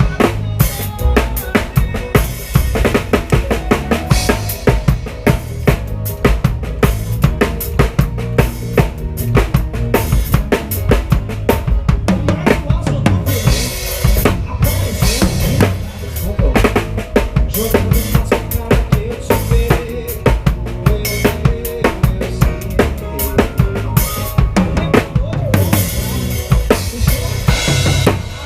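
Live band music with the drum kit up front: kick drum, snare and rimshots keeping a steady beat, with no singing.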